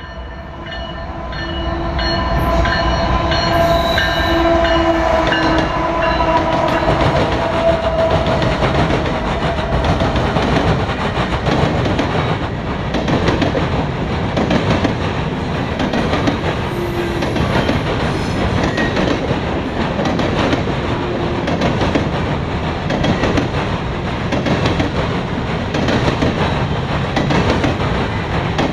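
Norfolk Southern freight grain train rolling past: a steady loud rumble with a rhythmic clatter of wheels over rail joints as the covered hopper cars go by. A few steady tones sound over it for roughly the first eight seconds, then fade.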